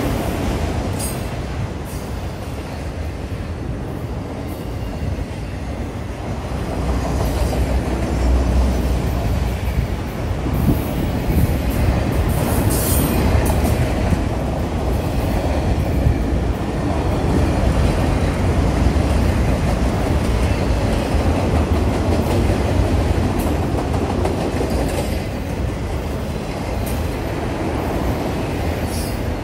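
Norfolk Southern freight train's autorack cars rolling steadily past, a continuous rumble of steel wheels on the rails, with a few brief high squeals from the wheels.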